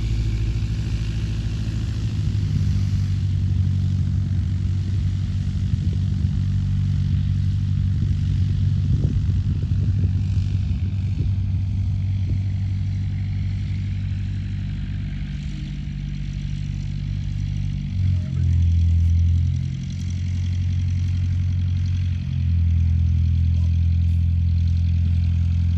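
A piston engine running steadily at low speed. Its pitch drops briefly about eighteen seconds in, then settles at a new steady speed a few seconds later.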